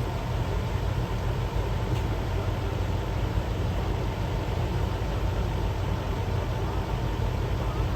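A steady low rumble of idling vehicle engines and traffic.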